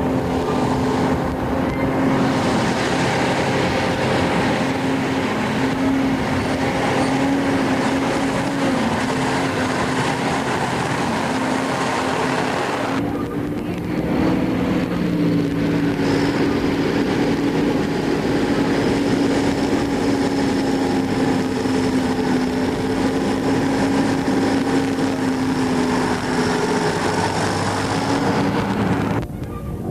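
Ural off-road truck's engine running steadily under load as the truck drives, a continuous drone that wavers slightly in pitch. About 13 seconds in, the higher noise briefly drops away, then the drone carries on a little higher in pitch.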